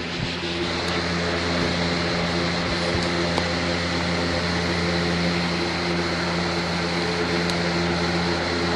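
Lasko electric fan running steadily with its airflow fully unrestricted: a steady rush of air over a low motor hum, getting slightly louder about half a second in.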